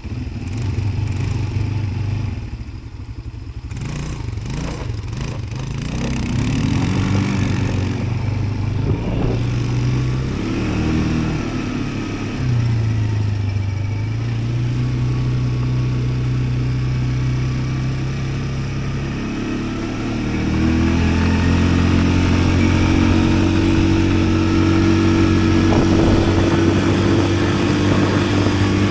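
Yuki Tract 200 ATV engine running under way, its pitch rising and falling with the throttle, then holding steadier and louder at higher revs for the last third.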